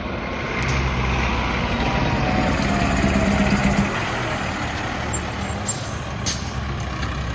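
Fire engine's diesel engine running steadily, with a rushing hiss for the first four seconds or so and a few short sharp clicks later on.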